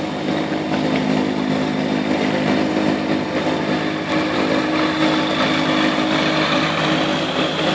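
An engine running at a steady speed, a continuous drone with no change in pitch.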